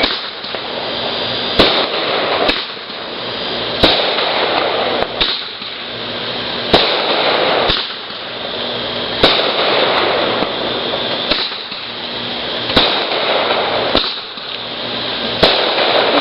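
Fireworks going off in a steady volley: about a dozen sharp bangs, one every second or two, with continuous crackling and hissing between them.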